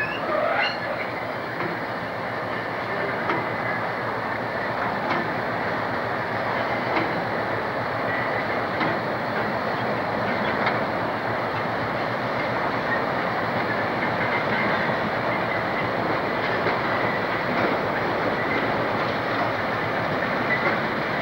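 Freight train of coal hopper wagons rolling past behind a diesel locomotive: a steady rumble with irregular clicks of wheels over rail joints and a few faint wheel squeals.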